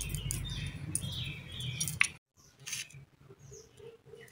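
Small birds chirping, with quick falling notes repeated over and over and a sharp click about two seconds in, after which the chirping is fainter.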